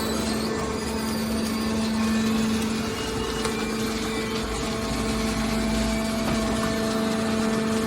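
Hydraulic scrap baler running: its motor and hydraulic pump give a steady hum holding one fixed tone over machine noise.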